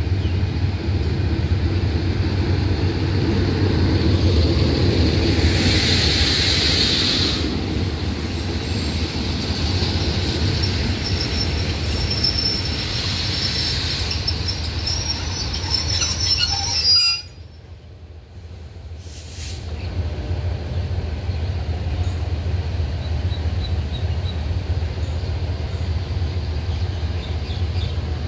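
A diesel-hauled passenger train rolls slowly into a station under braking, with a steady low engine rumble and rolling coaches. A high hiss and squeal from the braking wheels rises twice. The sound drops off briefly about two-thirds of the way through, then the rumble returns.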